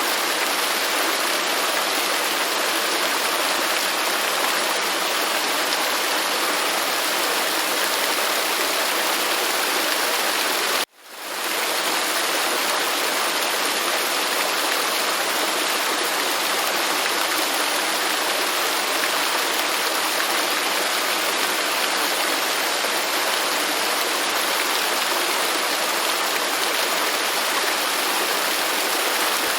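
Waterfall rushing as a steady, even hiss of falling water. About eleven seconds in it cuts out abruptly and fades back in within a second.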